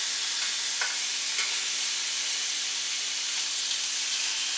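Beef hot dogs sizzling steadily as they cook, with a couple of faint light clicks.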